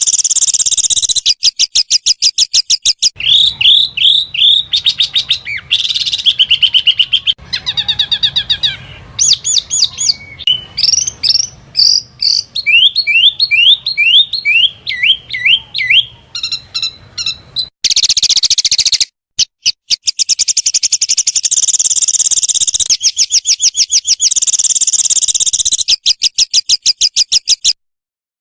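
Small songbirds giving loud, high-pitched rapid trills: fast strings of repeated notes and runs of upward-sweeping whistles. The calls come as recordings spliced together, breaking off abruptly a little past halfway and again near the end.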